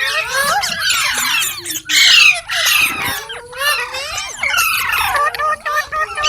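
Green parrots chirping and squawking: a dense run of quick overlapping calls, with a louder harsh squawk about two seconds in.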